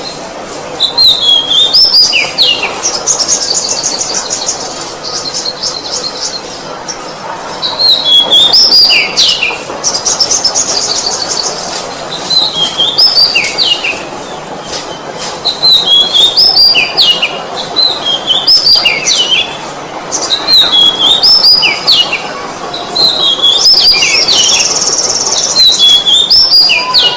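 Oriental magpie-robin (kacer) singing loudly in rich, energetic song. It repeats phrases of sliding whistled notes every couple of seconds, several of them run into rapid buzzy trills.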